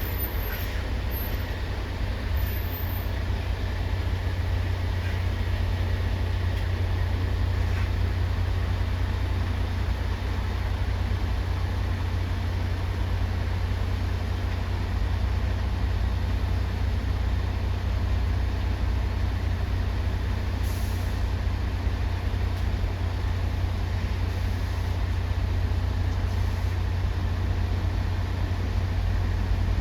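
Steady low rumble of heavy vehicles in a port, with a short high hiss about 21 seconds in.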